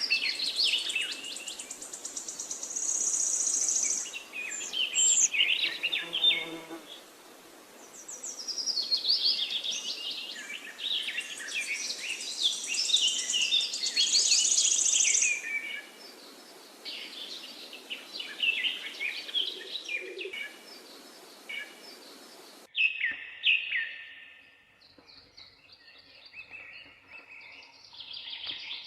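Several songbirds singing together in a dense chorus of fast chirps, twitters and trills. About three-quarters of the way through the sound changes abruptly to sparser, quieter song with pauses between phrases.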